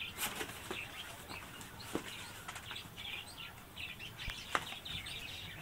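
Birds chirping: short high chirps repeating every fraction of a second, with a few faint clicks.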